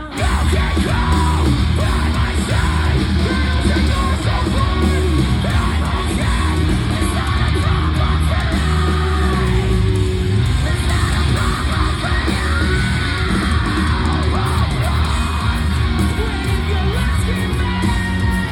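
A post-hardcore band playing live at full volume, with heavy drums, distorted guitars and yelled vocals. The sound breaks off for a split second right at the start, then the band comes straight back in.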